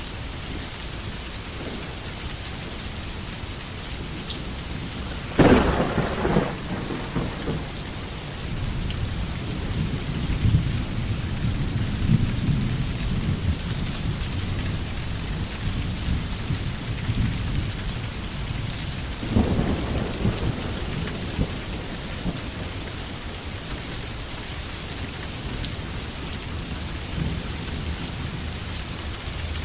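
Steady rain with thunder: a sharp thunderclap about five seconds in rolls off into a low rumble lasting several seconds, and a second, weaker crack of thunder comes about two-thirds of the way through.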